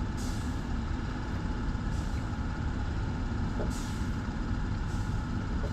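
Steady low mechanical drone with a faint steady hum, broken by short hissing rushes every second or two.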